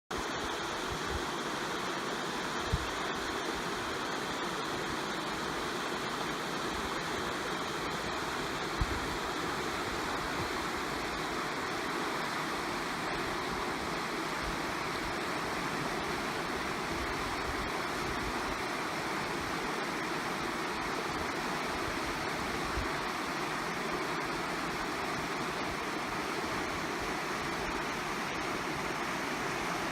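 Mountain creek water rushing in a steady, even flow, with a couple of brief low thumps.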